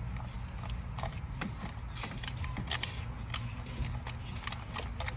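Irregular sharp metallic clicks and clinks of hand tools working on a van engine, over a steady low rumble.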